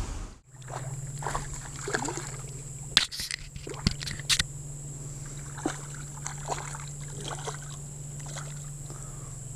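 Water sloshing and trickling around a kayak on a river, with a few sharp clicks and knocks of handling in the boat about three to four and a half seconds in, over a steady low hum.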